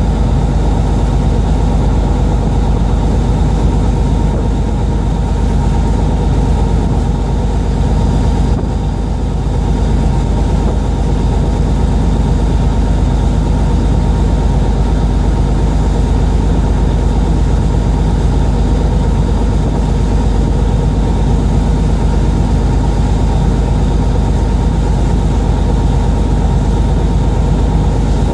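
Fishing boat's engine running steadily, a loud low drone that dips briefly about eight seconds in.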